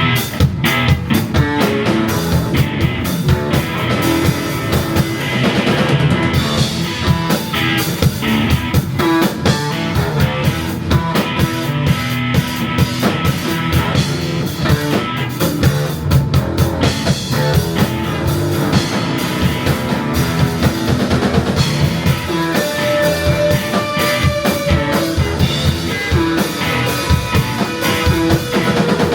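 Live instrumental rock: a band with drum kit, electric guitar and bass plays steadily.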